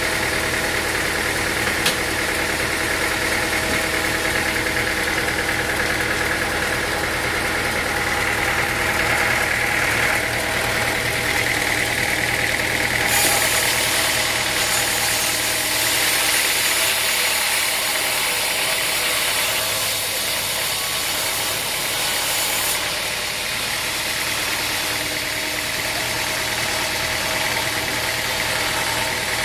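An engine running steadily at a low, even speed. A brighter hiss joins it for about ten seconds around the middle.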